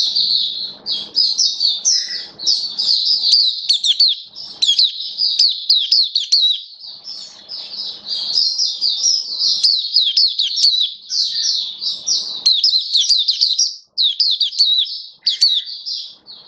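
Mata puteh (white-eye) singing a long, fast, high-pitched warbling song of rapid twittering notes, broken by brief pauses near the end.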